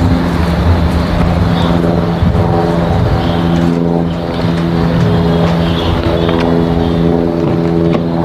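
Cessna 172 light single-engine piston airplane flying past, its engine and propeller giving a steady hum of even pitch.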